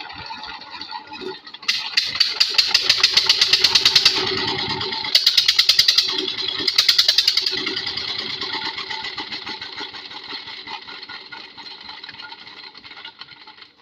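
Borewell pump engine catching about two seconds in and running with a fast, even knocking beat. It is loud at first, then fades steadily over the rest of the run.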